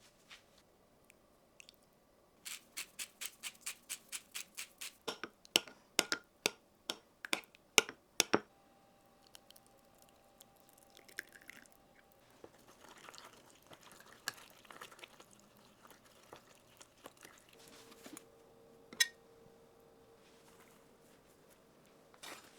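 Kitchen food-preparation sounds: a run of sharp, regular knocks, about three or four a second, getting louder over six seconds. Quieter scraping and rustling follow, then a single sharp click.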